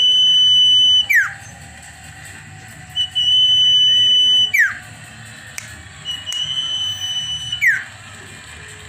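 Cipoh (sirpu) songbird, the common iora, singing: three long, level whistled notes, each held for over a second and ending in a quick downward slur, a few seconds apart.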